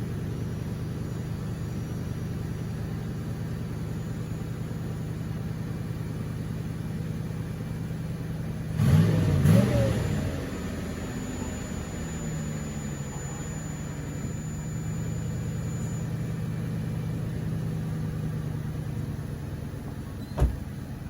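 Car engine idling steadily, with a brief louder surge of engine sound about nine seconds in and a single sharp knock near the end.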